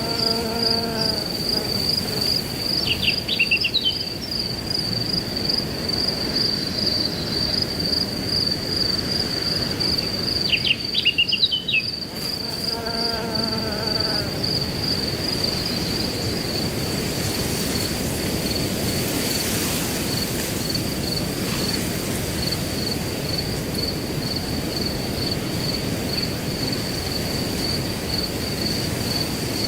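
Crickets trilling steadily in a high, rapidly pulsing tone over a constant wash of wind noise. Short bird chirps break in twice, a few seconds in and again about eleven seconds in, and two lower calls come near the start and around thirteen seconds in.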